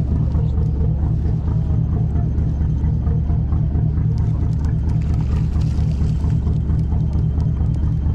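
A fishing boat's engine running steadily, heard as a low, evenly pulsing rumble.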